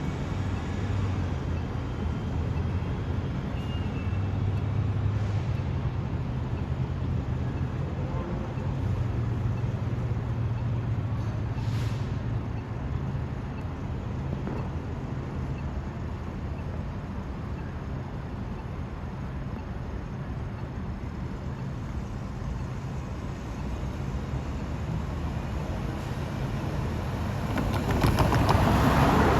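Large transit vehicle running with a steady low rumble. Near the end a louder rush of noise swells up.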